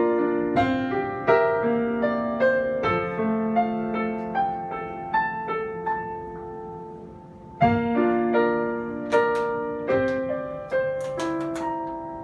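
Piano playing a slow melody over chords. The notes die away about six seconds in, then a loud chord starts the tune again. Sharp clicks join in near the end.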